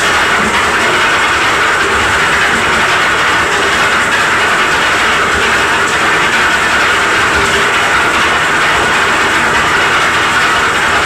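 Concrete mixer machine running steadily, a continuous mechanical noise without pauses.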